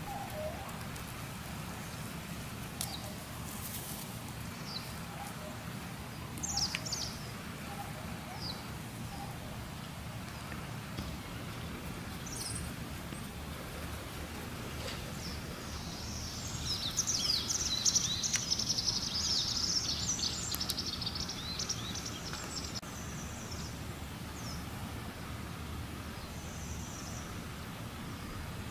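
Small birds chirping outdoors, scattered short high calls with a dense spell of rapid twittering about halfway through, over a steady low rumble.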